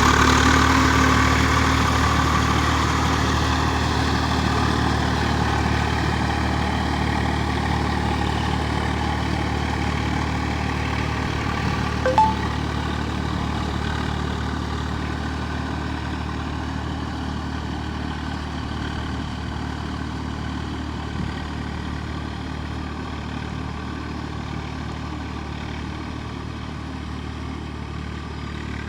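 Tractor diesel engine running steadily and slowly fading, as if moving away, with one short sharp sound about twelve seconds in.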